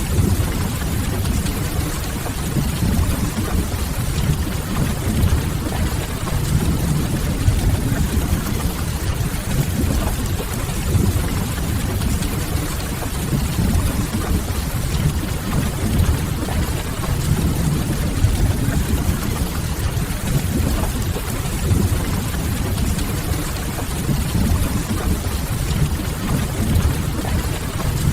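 Steady rain with a deep low rumble beneath it, unchanging throughout.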